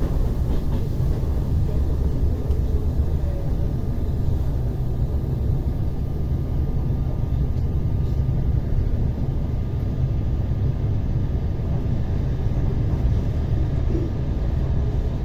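ER9T electric multiple unit running between stations, heard from inside the carriage: a steady low rumble of wheels and running gear at cruising speed.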